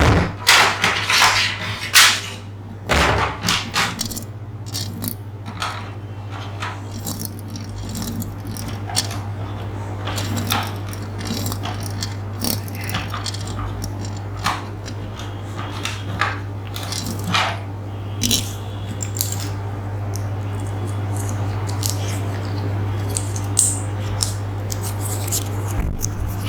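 Close-miked ASMR trigger sounds: irregular small clicks, taps and scratches, densest in the first few seconds, over a steady low hum.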